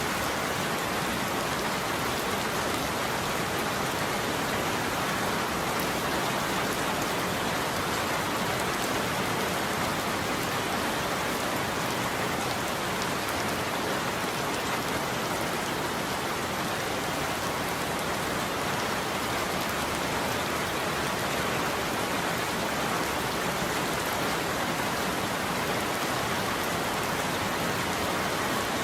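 Steady heavy rain falling on a surface, a dense even hiss of drops with no thunder.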